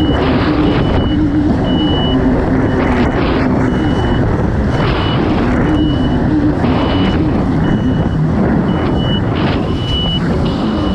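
Kawasaki STX 160 jet ski's four-stroke engine running hard at racing speed, its pitch wavering, over loud rushing water and wind. A high, thin beep sounds in short pulses about once a second throughout.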